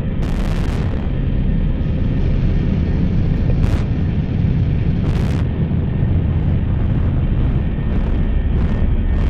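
Noise-music drone: a dense, loud low rumble of distorted noise, with several short bursts of high hiss breaking through.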